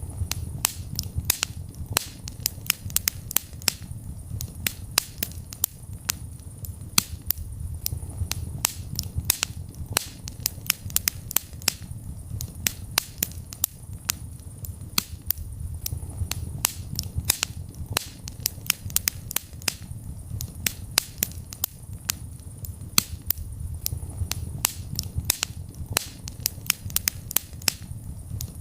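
Wood fire burning, with frequent irregular sharp crackles and pops over a low, steady rumble of flames.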